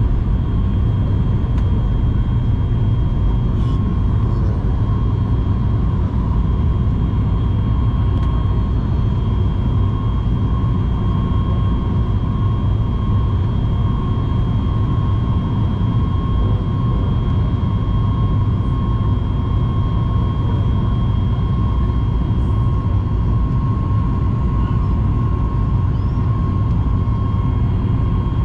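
Jet airliner cabin noise with the engines running steadily: a constant low rumble with a steady high whine and no change in pitch.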